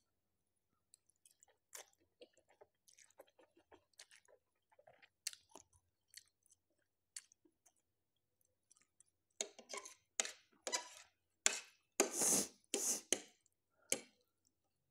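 Close-miked chewing of spicy Korean instant noodles: faint, scattered mouth noises at first, then from about halfway through a run of louder, wet slurping and chewing sounds.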